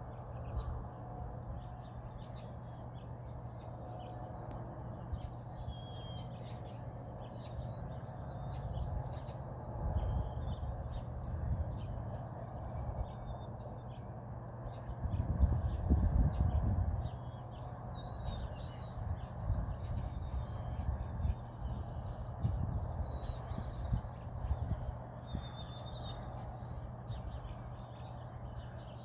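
Small birds chirping and twittering over a steady low rumbling noise, which swells louder a couple of times and is loudest about halfway through.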